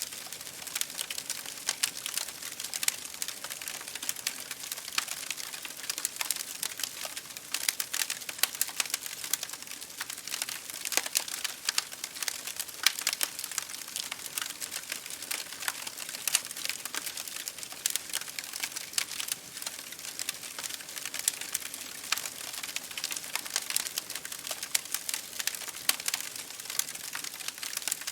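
Campfire burning: wood crackling in a steady, dense stream of small snaps, with scattered louder pops.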